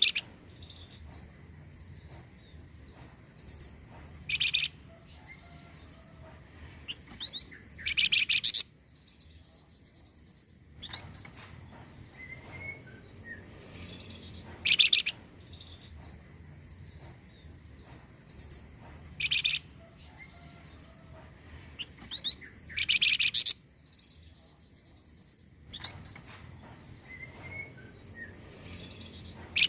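Song of the flamboyan bird played as a lure recording: short high chirps and whistled notes, broken by a loud burst of song about every seven or eight seconds. The same phrase sequence repeats, as in a looped track.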